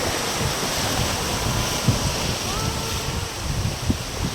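Wind buffeting the microphone in uneven low gusts over a steady rush of water, heard from a moving boat on a river.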